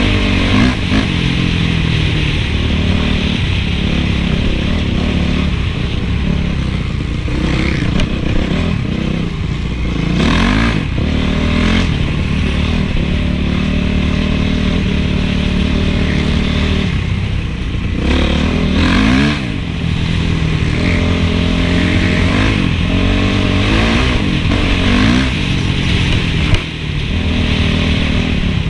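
Honda CRF450 four-stroke single-cylinder motocross engine being ridden hard, revving up and dropping back over and over as the throttle opens and closes. Short rushes of noise break in about a third and two thirds of the way through.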